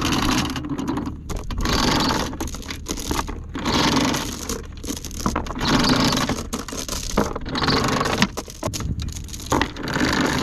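Anchor chain being hauled aboard a small sailboat, rattling and scraping over the bow in surges about every two seconds.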